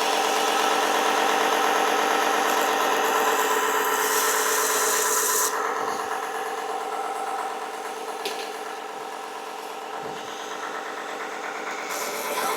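Mini electric belt sander running with a steady motor whine while a steel knife blade is ground against the belt. The hissing grind is strongest a few seconds in and cuts off suddenly about five and a half seconds in. The sander runs on more quietly, then the grinding picks up again near the end.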